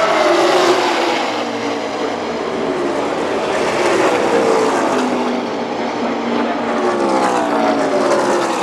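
A pack of NASCAR Xfinity Series V8 stock cars racing past at full speed, their engine notes falling in pitch as they go by, with another wave of cars passing near the end.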